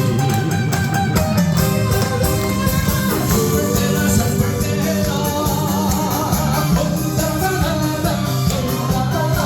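A song performed live with a singer and a backing band track, with the singer's own janggu (Korean hourglass drum) beating along.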